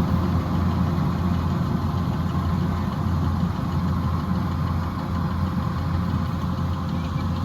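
Kubota DC-108X combine harvester's diesel engine running steadily with a low, even drone.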